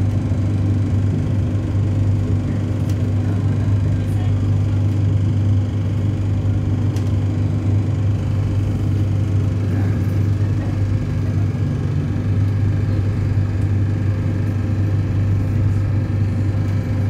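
Steady low drone of an NI Railways diesel multiple unit heard from inside the carriage as the train runs into a station, with a few faint clicks.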